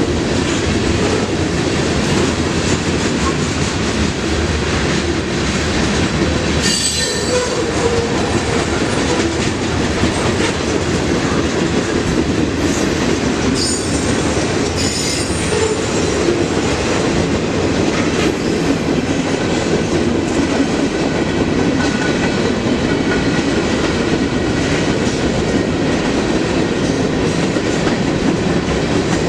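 Freight train cars rolling steadily past, their steel wheels clattering on the rails. There are short, high-pitched wheel squeals about seven seconds in and twice more around the middle.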